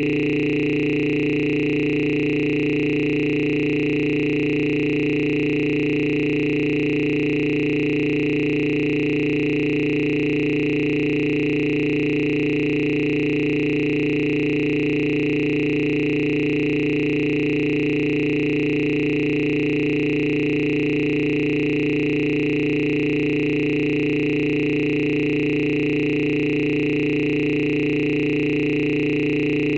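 A steady electronic drone of several held tones sounding together, unchanging in pitch and loudness.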